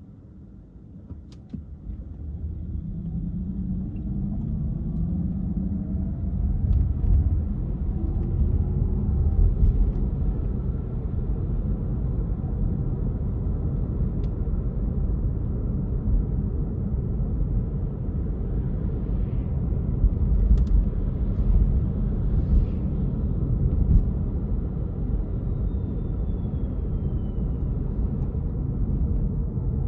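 Car pulling away and accelerating, the engine note rising over the first several seconds, then a steady low rumble of engine and tyres on the road.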